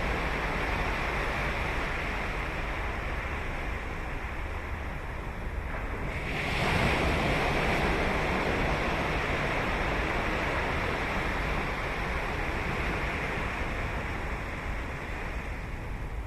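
Ocean surf on a beach: a steady wash of waves, with one wave breaking about six and a half seconds in, louder and hissier, then slowly washing out.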